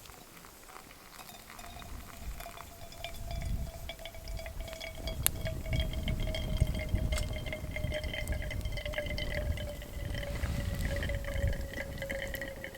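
Water poured from a kettle into a vessel for coffee, splashing, with a steady ringing tone that slides slightly lower as it goes.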